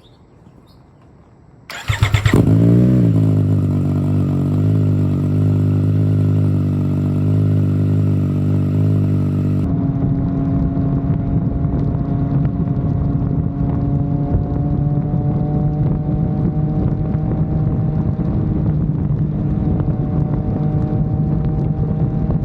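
Triumph Street Triple 765 RS inline-three engine with a ZARD exhaust starting up about two seconds in, then idling steadily. The tone changes abruptly about ten seconds in and then holds at a steady idle.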